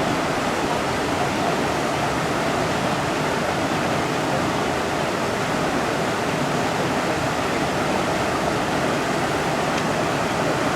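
Mountain river rushing steadily over rocks, a constant even roar of flowing water.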